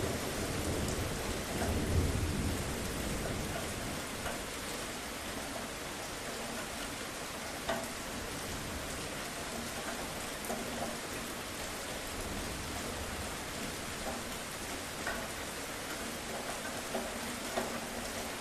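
Steady rain hissing, with a low rumble of thunder that swells in the first few seconds and fades away. Scattered drops tick through the rest.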